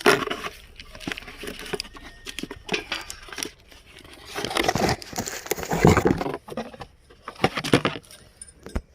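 Box of new brake pads being opened by hand: cardboard and wrapping rustle, crinkle and tear in irregular bursts, with scattered sharp knocks and clicks, loudest about halfway through.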